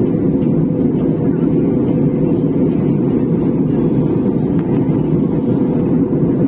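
Steady airliner cabin noise during descent: the low, even rush of engines and airflow heard from inside the passenger cabin.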